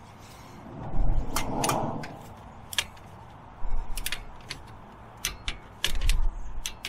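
Scattered sharp metallic clicks and clinks of hand tools working on the front brake caliper, with a few dull low thumps, about a second in, midway and near the end.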